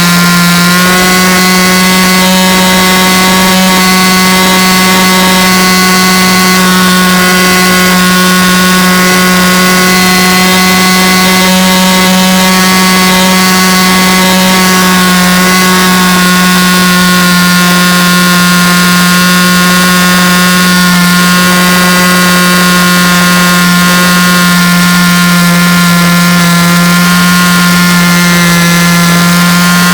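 A loud, steady buzzing drone with a low hum and many higher overtones, not changing in pitch or level.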